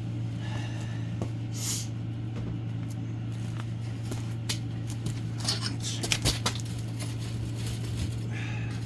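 A steady low mechanical hum, with scattered small clicks and a few sharp knocks around six seconds in.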